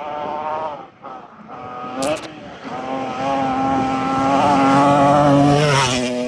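Rally car engines at high revs, the pitch wavering as the drivers work the throttle, with a short sharp hit of noise about two seconds in.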